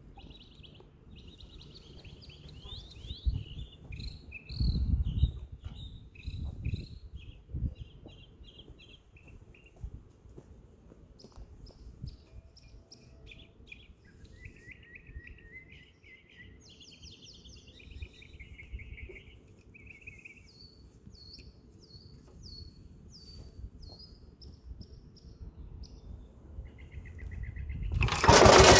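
Several birds singing and chirping, with a few low thumps and rumbles in the first seconds. Near the very end a loud engine sound comes in suddenly, the BCS 715 walk-behind tractor's Lombardini diesel engine.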